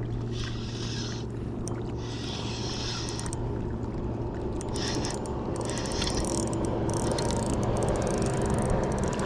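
A boat motor running steadily with a low, even hum that switches on abruptly, with brief hissy swishes over it in the first few seconds.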